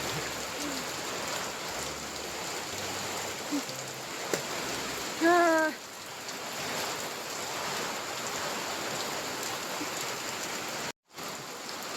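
Steady heavy rain falling. About five seconds in, a short, bending, voice-like cry stands out above the rain as the loudest sound, and near the end the sound cuts out for a moment.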